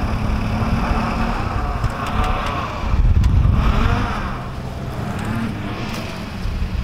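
Vehicle engine revving under load as a truck is driven out of deep sand, getting louder about three seconds in.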